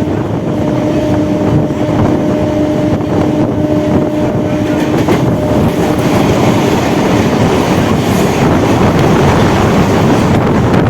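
Suburban electric multiple-unit local train running at speed, heard on board: steady rumble and rush of wheels on rail and air. A steady hum fades away about halfway through.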